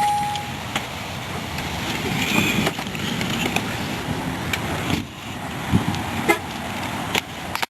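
A short, steady single-pitched car beep that ends about half a second in, then steady background noise with a few sharp knocks.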